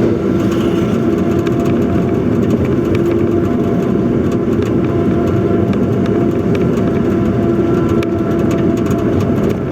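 Truck engine and road noise while driving at a steady speed: a steady drone with a held hum that does not change in pitch.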